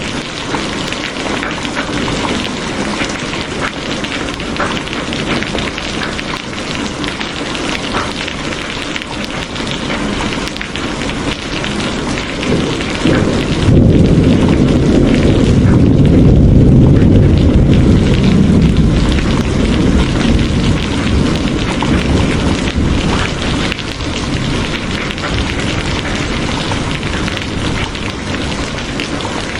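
Steady rain, with a long low rumble of thunder that swells about halfway through and fades over several seconds.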